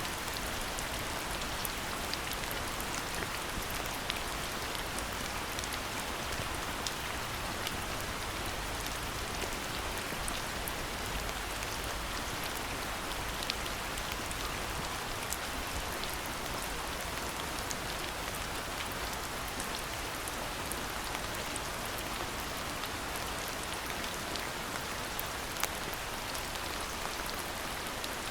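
Steady rain falling, an even hiss with scattered sharp ticks of single drops hitting nearby.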